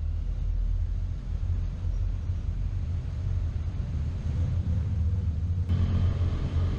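Motorcycle riding at road speed, with a steady low wind-and-engine rumble on the onboard microphone. About six seconds in, the engine's pitched note comes up more clearly.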